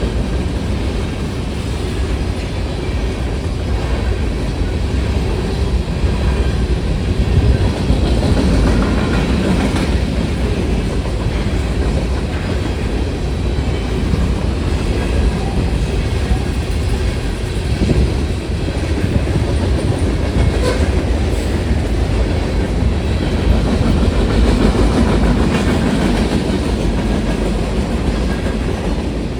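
Freight train cars of a manifest train rolling steadily past, the wheels clacking over the rail joints.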